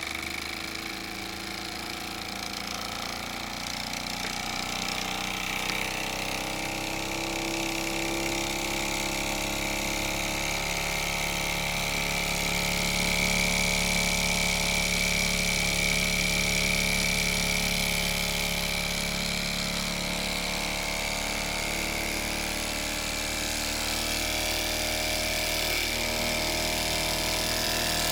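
Mamod SP6 miniature stationary steam engine with its double-acting cylinder running steadily after a cold start, a continuous mechanical sound with several steady tones; it gets a little louder about ten seconds in.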